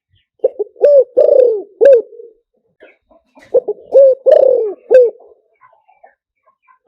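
Spotted dove cooing, in two phrases of several low coos each: the first about half a second in, the second about three and a half seconds in. It is a decoy call of the kind played to lure wild spotted doves in.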